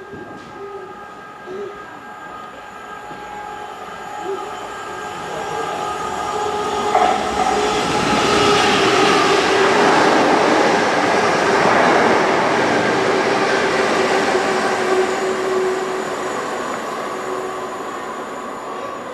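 A train passing. Its noise builds to a peak about halfway through and then eases off, with steady humming tones running through it.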